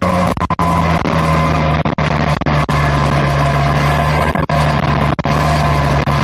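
Straight-piped engine exhaust holding a steady low drone, cut by a few very brief dropouts.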